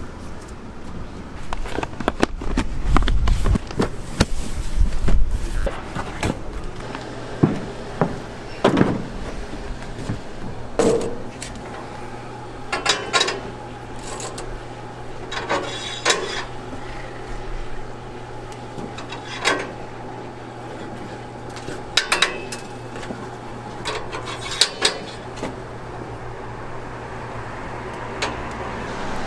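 Kitchen clatter: metal utensils, trays and pans clinking and knocking at irregular moments over a steady low hum, with a low rumble in the first few seconds.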